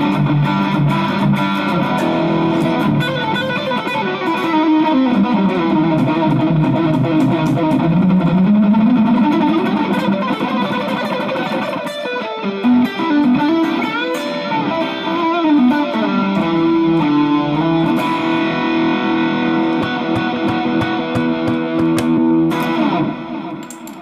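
Electric guitar fitted with a treble bleed circuit (Duncan-style 102J capacitor on the volume pot) and an Orange Drop 223J tone capacitor, played with a distorted, driven tone. Sustained notes and phrases, with a long run that slides down in pitch and then back up in the middle. The playing stops right at the end.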